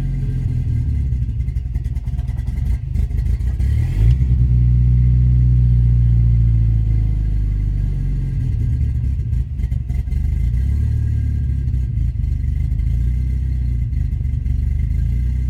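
Turbocharged Volvo B230F 2.3-litre four-cylinder running after a cold start. A sharp knock comes about four seconds in, the revs rise and hold for about four seconds, then fall back and waver before settling: an engine with cold-start trouble that appeared after a new wiring harness was fitted.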